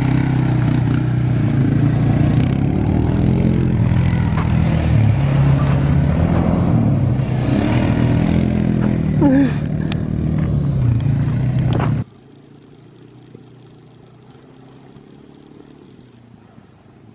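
Quad bike engine running steadily under way. It cuts off abruptly about twelve seconds in, leaving only a faint background.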